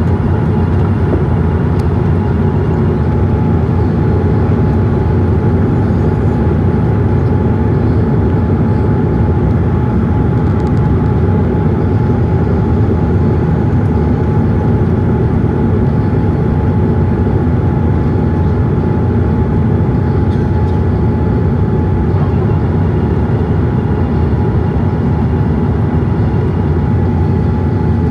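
Steady engine and airflow noise inside the cabin of a Boeing 787-8 airliner, a constant low rumble with a faint steady hum above it.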